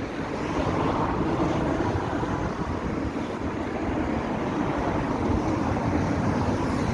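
Street traffic noise: vehicles running along the road in a steady rumble that swells slightly about a second in, with some wind on the microphone.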